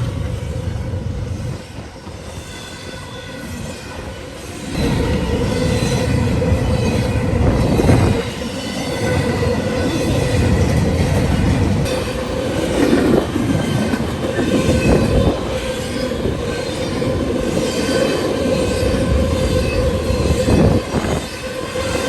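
Norfolk Southern intermodal train passing at speed: a low rumble that eases off about two seconds in, then from about five seconds the cars rolling by louder, with irregular wheel clicks over the rail joints and a steady high wheel squeal.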